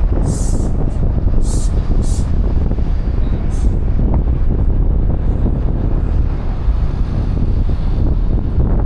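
Wind on the microphone over a steady low rumble of city traffic, with a few short hissing bursts in the first two seconds.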